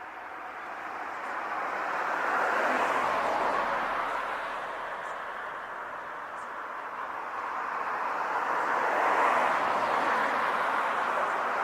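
Road traffic passing: vehicles going by one after another, a rushing tyre-and-engine noise that swells about two seconds in, eases, then swells again near the end.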